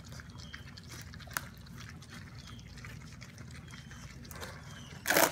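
Basset hound puppies eating soft mush from their dishes, a wet lapping and smacking with small clicks and a few faint squeaks. A short loud noise comes just before the end.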